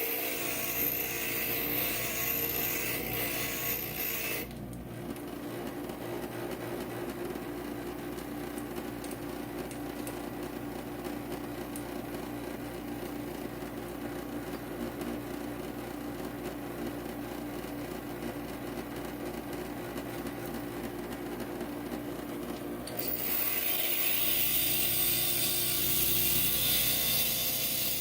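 Inland stained-glass grinder's motor running steadily, with a gritty hiss as glass is pressed against the spinning diamond bit for the first few seconds, then the motor running free, and grinding again near the end.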